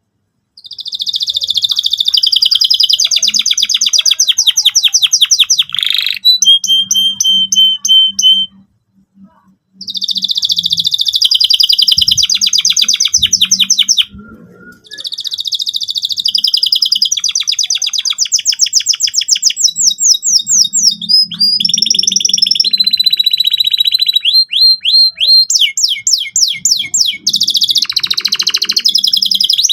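Domestic canary singing long phrases of rapid repeated trills and chirps, broken by two short pauses, one about a third of the way in and one about halfway through.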